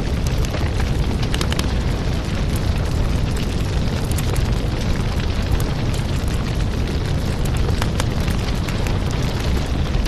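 Wood fire in a fireplace crackling steadily: a low rumbling hiss of the flames with frequent sharp pops and snaps from the burning wood.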